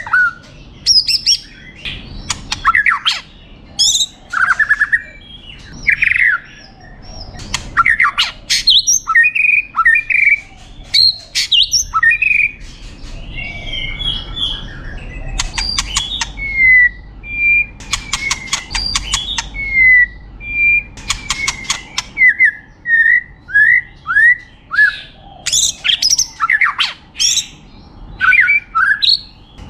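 White-rumped shama singing a varied, nonstop song. It mixes clear whistled slurs, harsh notes and rapid rattling trills, with a run of short falling whistles in the second half. The song is packed with mimicked phrases.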